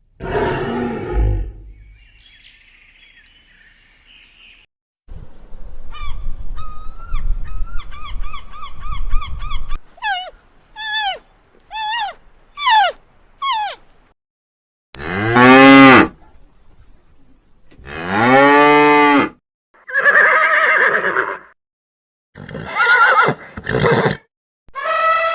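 A series of different animal calls, one after another with short gaps, including long cattle moos. About ten seconds in come four short falling chirps.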